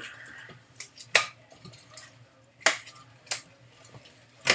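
Latex modelling balloons being handled and twisted, giving four sharp squeaks over quieter rubbing of latex.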